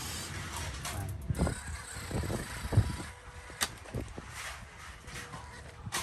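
Radio-controlled off-road truck driving over rough ground: its small motor and gears whir mechanically. Irregular knocks and sharp clicks come from the tyres and chassis striking rock.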